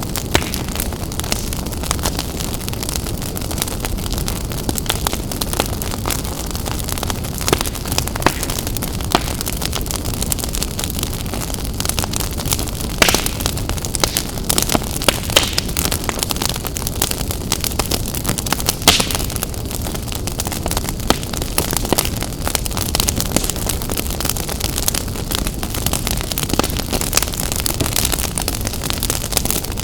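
Wood fire burning in a fireplace: a steady low rumble with frequent sharp crackles and pops, and a few louder snaps now and then.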